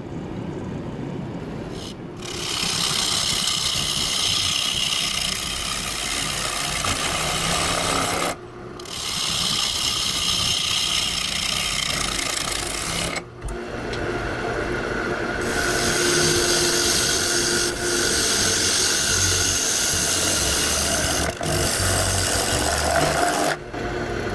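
Turning tool cutting into a spinning wood piece on a wood lathe: a steady hiss of shavings over the lathe's running, in several long stretches broken by short pauses.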